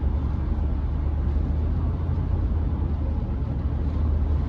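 Steady low drone of road and engine noise inside the cab of a Chevrolet C10 pickup cruising on the highway.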